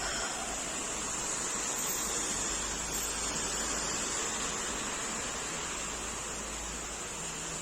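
Steady rain falling in a thunderstorm, an even hiss that holds level.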